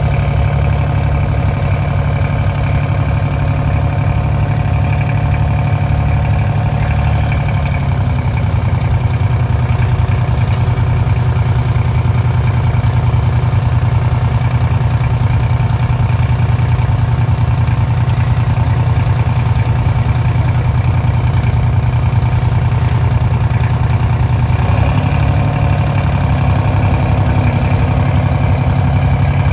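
Engine of a tractor-pulling machine running steadily at a loud idle. Its pitch drops slightly about eight seconds in and rises again near the end.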